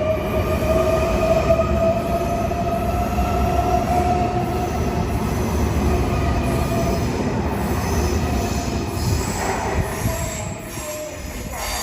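Electric multiple-unit train running on the rails: a steady rumble under a whine of several tones that climbs slightly and then slowly eases down. The sound drops off near the end.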